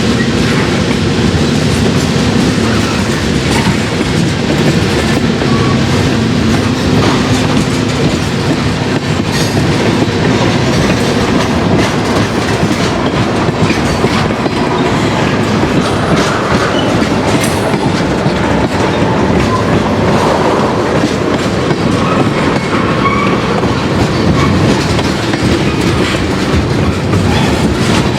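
Freight train rolling past with a steady clatter of wheels over the rails. A low steady hum, likely the locomotive, is heard for the first nine seconds or so.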